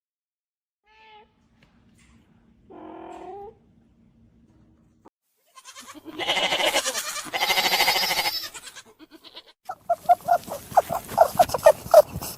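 Animal calls: a brief pitched call, then two loud harsh calls of about a second each, followed by a rapid run of short, clipped calls.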